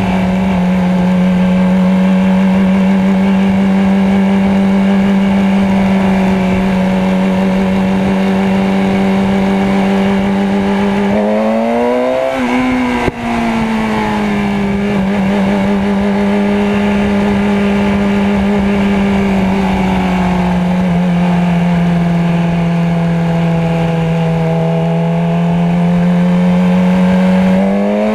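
Motorcycle engine running at a steady pitch under way. About eleven seconds in the pitch rises, then falls back after a brief dip in the sound, and it rises again near the end.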